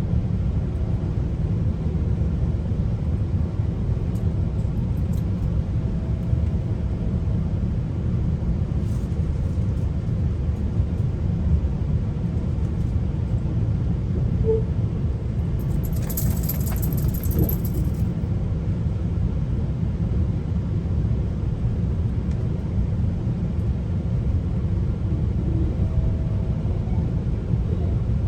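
Steady low rumble of a GO Transit commuter train running on the rails, heard from on board, with a brief high-pitched hiss about two-thirds of the way through.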